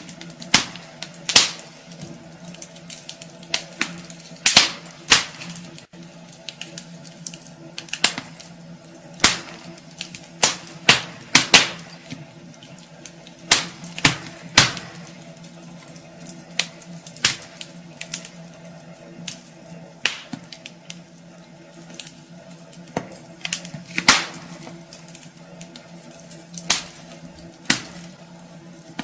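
Wood fire burning in a fireplace, crackling with irregular sharp pops, sometimes several in quick succession, over a steady soft hiss and a faint steady hum.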